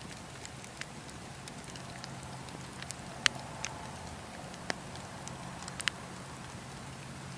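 Wood fire crackling: irregular sharp pops and snaps from the burning wood over a steady low rush, the loudest pops a little after 3 seconds in and near 6 seconds.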